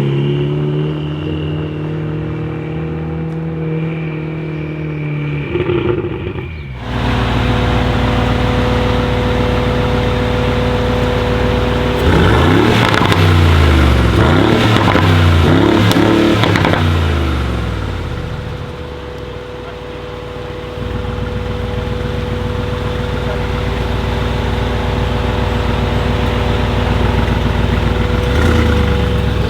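Mercedes-AMG G63's twin-turbo V8 with an Akrapovic exhaust idling steadily, then revved several times in quick succession in the middle, the pitch rising and falling with each blip before it settles back to idle.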